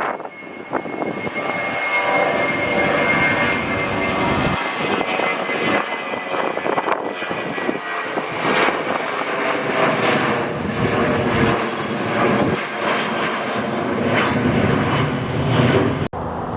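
Airliner engines running loud and steady as a plane passes, with a whine that slowly falls in pitch over the first several seconds. The sound breaks off abruptly about a second before the end.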